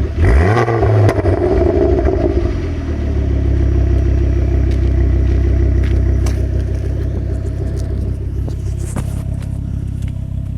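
Tuned engine blipped once, its pitch rising and falling back in the first second or so, then dropping to a steady idle with scattered sharp pops and cracks from the exhaust. These are the rev bangs of a pops-and-bangs map set to about 2,500 rpm.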